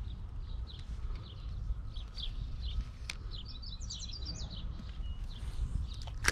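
Small birds chirping repeatedly in quick series of short, high notes that fall in pitch, over a steady low rumble. A sharp click sounds near the end.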